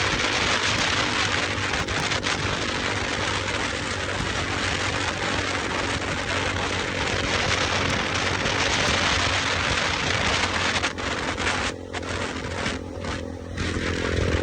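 Motorcycle engine running steadily under way, buried in a heavy rush of wind and road noise. Near the end the rush drops out briefly a few times.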